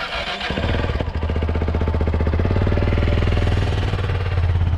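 Motorcycle engine running with a rapid, even putter, coming in about half a second in and holding steady.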